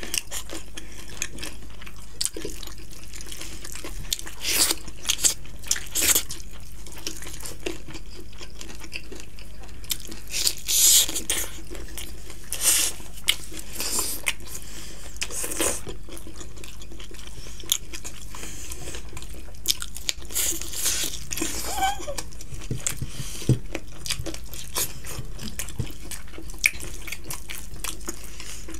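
Two people eating rice and chicken curry by hand, close to the microphone: chewing and biting in short, irregular bursts over a steady low hum.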